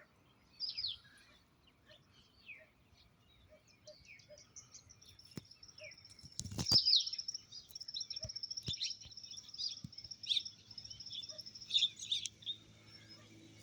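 Small birds chirping in short, scattered calls, joined from about five seconds in by a steady high-pitched tone. There is a single sharp thump about halfway through.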